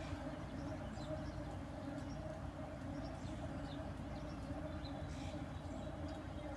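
Basement washing machine running with a steady, quickly pulsing low drone and faint high squeaks, which the uploader puts down to the machine having issues.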